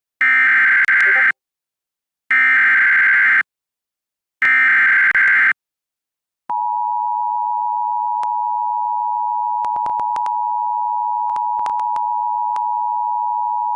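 Emergency Alert System broadcast for a severe thunderstorm warning: three one-second bursts of SAME digital header data, then the two-tone EAS attention signal holding steady from about six and a half seconds in. The sequence marks the start of an emergency alert, just before the spoken warning.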